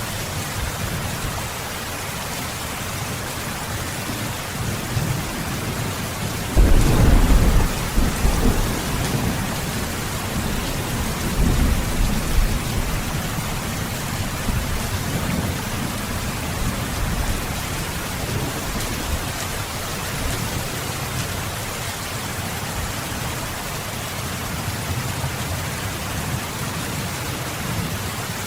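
Steady heavy rain. A roll of thunder breaks in suddenly about six and a half seconds in and rumbles on for a few seconds, with a second, weaker rumble around twelve seconds in.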